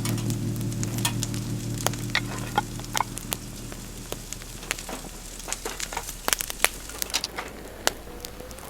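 Wood fire crackling, with irregular sharp snaps and pops. Background music fades out about halfway through.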